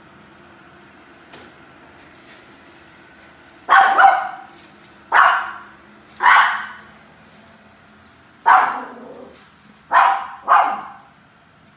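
Maltipoo puppy barking, about seven short sharp barks, some in quick pairs, starting a few seconds in, over a faint steady hum.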